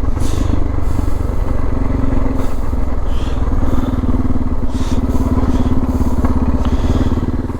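Suzuki DR650's single-cylinder engine running steadily under way, heard from on the bike.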